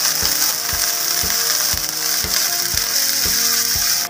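Chopped tomatoes with garlic and onion sizzling in hot oil in a pan, a steady high hiss, over background music with a steady beat of about two thumps a second.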